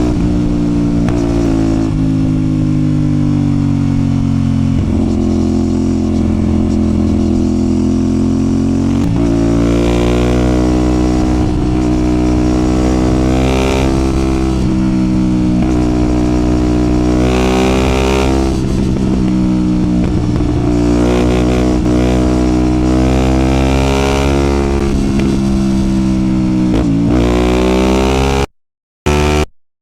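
CFMOTO 450SR's parallel-twin engine under way, holding a steady lower pitch for the first several seconds, then rising in pitch again and again as the throttle opens and falling back as it eases off. The sound cuts out briefly near the end.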